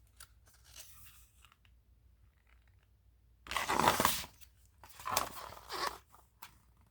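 Paper rustling as the pages of a picture book are handled and turned: faint rustles at first, then two louder swishes in the second half.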